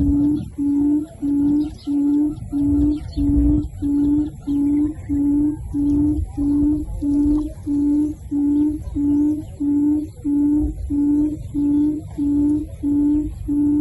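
A low hooting bird call: one short note repeated very evenly, about twice a second, over a low rumbling background.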